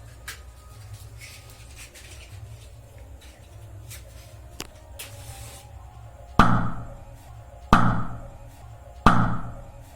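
Three sharp pops of hydrogen-filled soap bubbles being lit, about a second and a half apart, each dying away quickly; the pops show the gas is hydrogen. A few faint clicks come before them.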